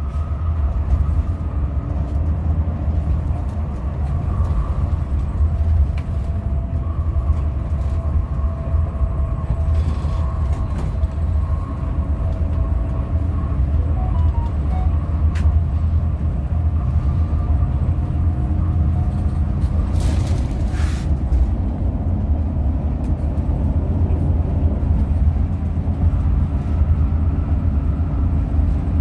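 Hino RM 280 coach on the move: a steady low drone of engine and road rumble, with a brief hiss about two-thirds of the way through.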